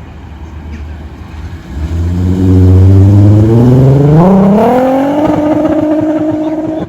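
Volkswagen Golf accelerating hard away: from about two seconds in, the engine gets loud and its note climbs steadily as the revs rise, then holds high until it cuts off suddenly at the end.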